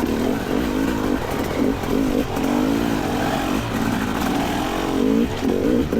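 Two-stroke dirt bike engine revving up and down again and again, its pitch rising and falling with the throttle.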